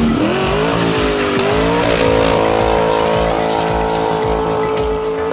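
Car engine revving: the pitch dips, climbs at about two seconds, then holds steady at high revs, with music underneath.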